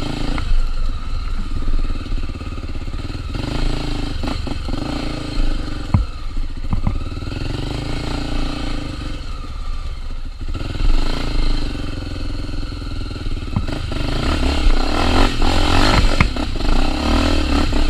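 Honda Tornado 250 single-cylinder four-stroke trail bike running off-road, the throttle opening and closing so the engine note swells and falls several times. Sharp knocks and clatter from the bike jolting over rough ground come through it, several of them about six to seven seconds in and again late on.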